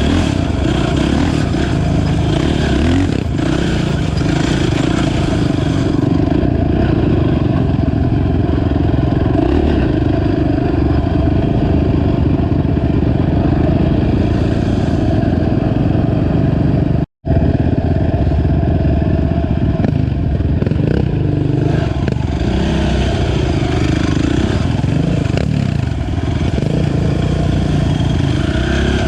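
Honda TRX 450 sport ATV engine running under way on a trail, with the revs swinging up and down repeatedly in the last third. The sound cuts out completely for an instant about two-thirds of the way through.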